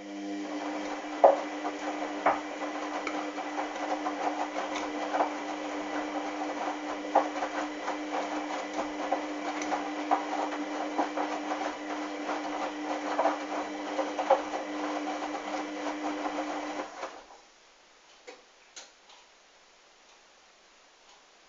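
Hoover washing machine's motor turning the drum of wet towels: a steady motor hum with irregular soft knocks as the load tumbles. It stops abruptly about 17 seconds in, and a few faint clicks follow.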